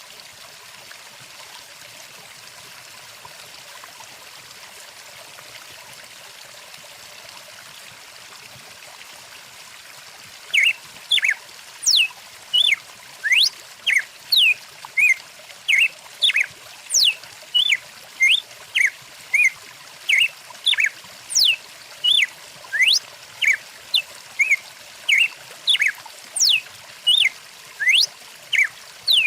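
Steady rush of a flowing stream. About ten seconds in, a bird starts calling loudly and keeps on in a quick, regular series of short whistled notes and sweeping whistles, over and over.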